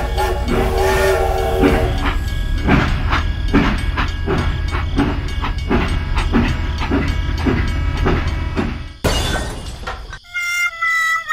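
Steam-train sound: a whistle that stops about two seconds in, then a steady rhythmic chugging at about two beats a second. Music with a melody comes in near the end.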